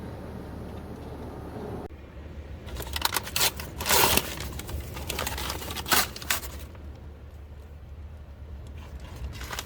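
Handling noise: a run of short clicks and rustles from about three to six and a half seconds in, loudest around four seconds, then a single click near the end.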